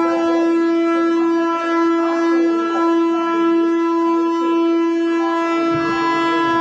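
Train horn sounding one long, steady blast on a single pitch.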